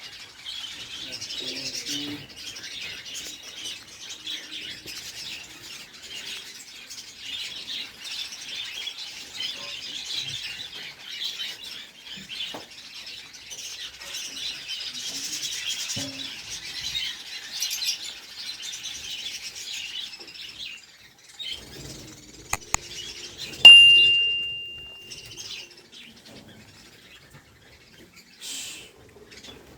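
Many small cage birds, finches among them, chirping together in a dense, high chatter that thins out about twenty seconds in. About twenty-four seconds in, a sudden loud click with a high ringing tone cuts in and fades within a second or two.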